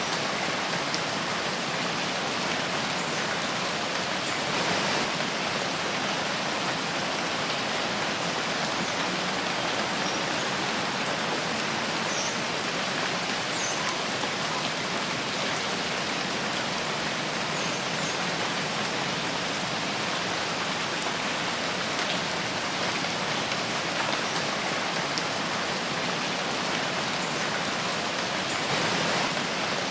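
Steady rain falling in a forest, a dense even hiss of drops that swells slightly now and then.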